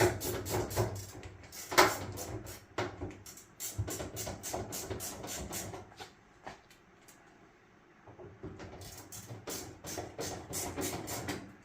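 Screwdriver clicking rapidly while driving sheet metal screws into a dryer's thin metal panel, in two runs: one for about six seconds, then a pause, then another near the end.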